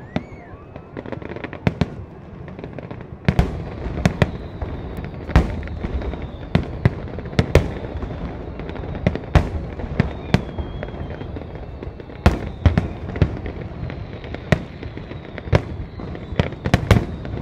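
Aerial fireworks display: shells bursting in an irregular run of sharp bangs over a continuous crackling rumble, which grows louder and denser about three seconds in.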